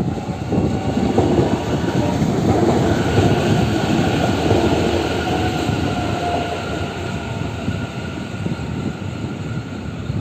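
A train running on the rails: a steady rumble of wheels and track, with a faint whine that is strongest midway and eases off near the end.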